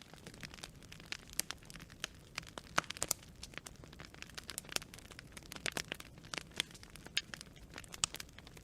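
Burning branches in a campfire crackling and popping, irregular sharp snaps over a low, steady hiss and rumble of the flames.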